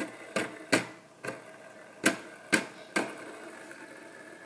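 Hard plastic Lego parts clicking and knocking as a toy plane and its fan are handled: about seven sharp, irregular clicks over three seconds.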